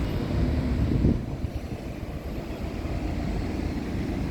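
Dubai Metro train running, a steady low rumble with a brief louder bump about a second in.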